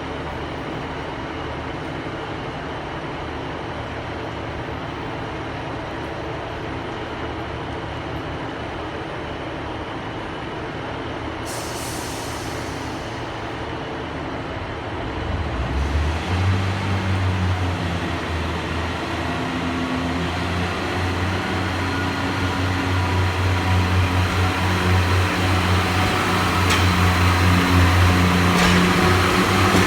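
Class 143 Pacer double unit's underfloor diesel engines idling, with a short hiss of air about twelve seconds in. Halfway through, the engines open up with a deeper, louder note that keeps building as the train pulls away.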